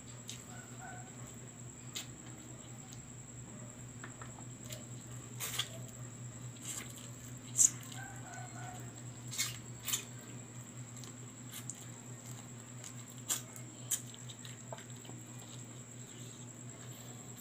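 Close-up eating sounds of roasted chicken eaten by hand: chewing, with scattered short lip smacks and clicks, the loudest a sharp smack about halfway through, over a steady low hum.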